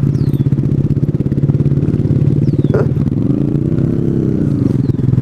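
Small 125cc single-cylinder motorcycle engine running steadily at low speed. About three seconds in, a second engine note rises and falls back over a couple of seconds, as the throttle is opened and closed.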